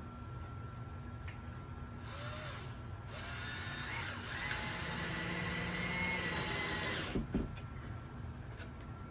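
Cordless drill-driver driving a screw into wood: a short burst about two seconds in, then a steady run of about four seconds that stops sharply, followed by a couple of knocks.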